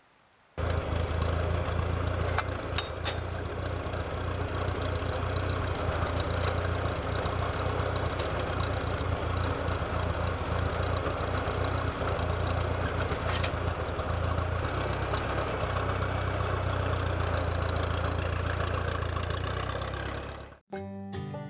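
Tractor engine running steadily, with a constant low drone. It cuts off abruptly near the end, giving way to banjo and guitar music.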